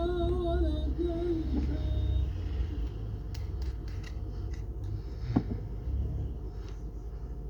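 A man's voice chanting a long, wavering held note in Quran recitation, ending under two seconds in. Then a low hum with scattered clicks and one sharp knock about five seconds in.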